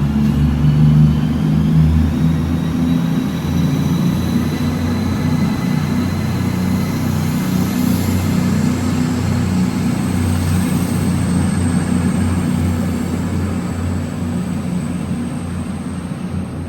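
Train running at a station platform: a loud low engine rumble under a thin high whine that slowly rises in pitch as it pulls away, easing off slightly near the end.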